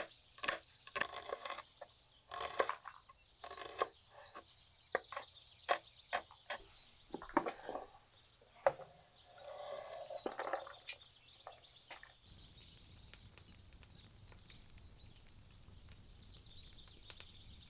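A knife cutting a white onion on a cutting board, in irregular sharp chops and slicing strokes. Birds chirp in the background. The cutting mostly stops about twelve seconds in, leaving birdsong over steady outdoor background noise.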